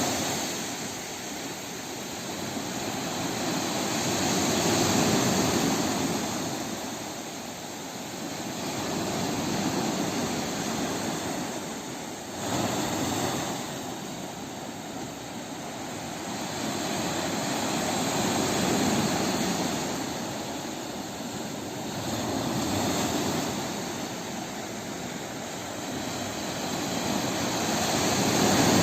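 Sea waves breaking and washing in, a continuous rush that swells and falls back every few seconds, with one wave coming in more sharply about twelve seconds in.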